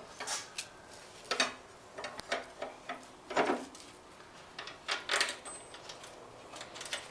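Scattered metallic clinks and knocks from hands at work on mower parts and tools, about five louder strikes with quieter handling in between.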